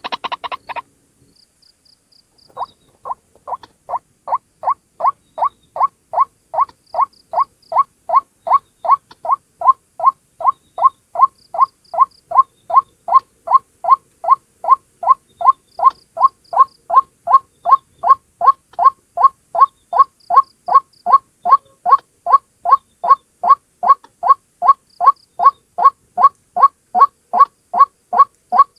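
White-breasted waterhen (ruak-ruak) calling: after a short pause near the start, a long run of short, evenly repeated croaking notes, about two a second, building in loudness over the first few seconds and then holding steady.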